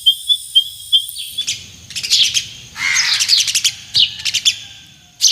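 Wild birds singing: a run of short, evenly spaced high pips, then from about a second and a half in quick, high chirps and trills in rapid falling runs of notes.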